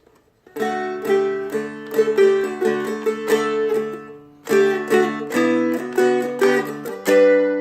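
Seagull Merlin M4 stick dulcimer, flatpicked: a phrase of plucked melody notes over steady lower strings, a short break about four seconds in, then more notes ending on a ringing chord.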